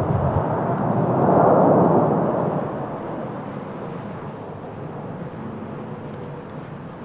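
Airbus A321neo jet airliner's CFM LEAP-1A engines rumbling as it lands. The roar swells to its loudest about a second and a half in, then fades away steadily.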